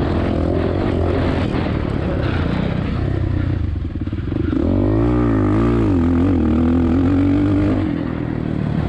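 Suzuki RM-Z450 single-cylinder four-stroke motocross engine being ridden hard, its revs rising and falling with the throttle a few times midway, then holding high before backing off near the end.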